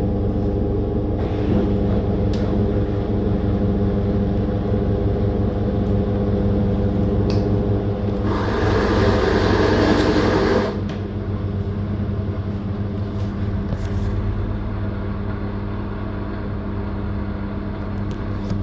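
Living & Co 5.5 kg top-loader washing machine running with a steady motor hum. About eight seconds in, a louder rushing noise joins for about two and a half seconds, then stops suddenly.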